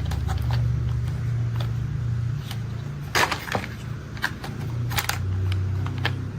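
Low, steady engine-like drone of heavy machinery with sharp clicks and clacks from toy construction vehicles being handled, loudest in a cluster about three seconds in and again around five seconds in.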